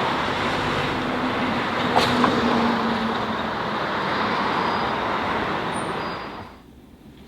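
Vehicle running with a steady road and engine noise, a single short knock about two seconds in, fading out after about six seconds.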